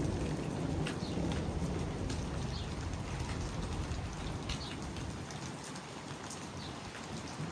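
Rain falling with scattered drop ticks, under a low rumble of thunder that fades out over the first few seconds after a lightning flash.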